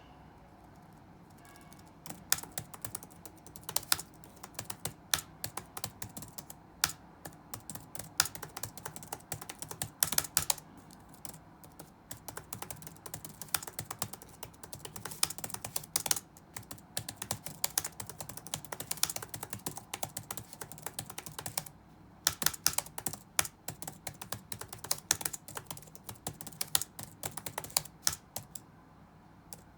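Computer keyboard being typed on in quick, irregular runs of clicking keystrokes, with a pause of about two seconds at the start and a shorter one about two-thirds through. A faint steady low room hum runs underneath.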